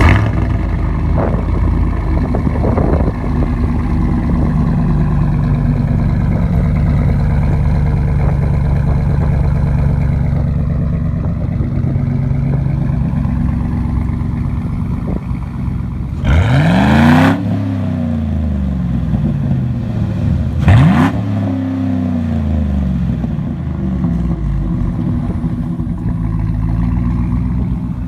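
2007 GMC Yukon Denali's 6.2-litre V8 running through a Carven R muffler and MBRP cat-back exhaust, idling steadily, then revved twice, about 16 and 20 seconds in, each rev climbing quickly and dropping back to idle.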